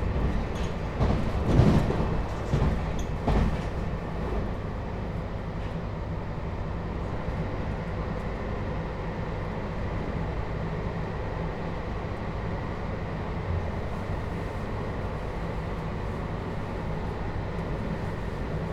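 JR Hokkaido 721-series electric train motor car with a Toshiba GTO inverter, heard from inside the car while it runs: a few heavy wheel thumps over rail joints in the first four seconds, then steady rolling noise with faint held tones.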